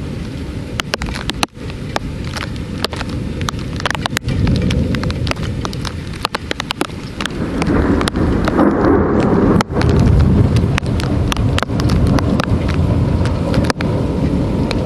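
Rain in a thunderstorm, with many sharp ticks of drops landing close by. A low roll of thunder builds about halfway through and keeps rumbling.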